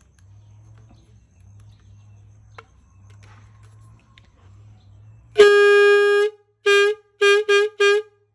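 Homemade horn made from a plastic water bottle and a balloon, blown by mouth. After a faint low rumble it sounds one long note of about a second, then four short toots at the same pitch.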